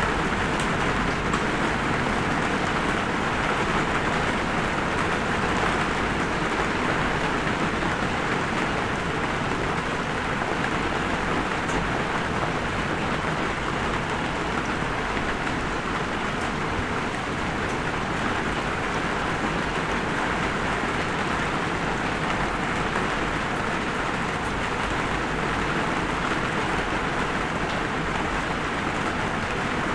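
Light rain falling steadily, an even wash of patter with an occasional sharper drop tick.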